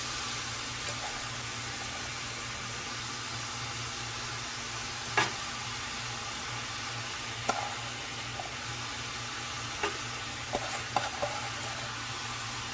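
Ground beef and cooked rice sizzling in a frying pan while being stirred, with a utensil knocking sharply against the pan several times, the loudest about five seconds in.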